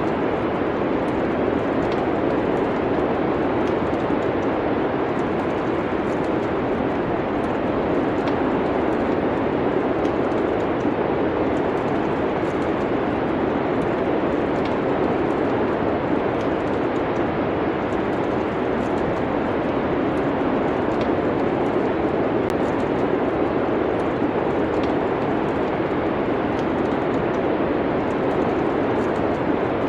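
Steady wind noise with small, irregular fireplace crackles scattered through it.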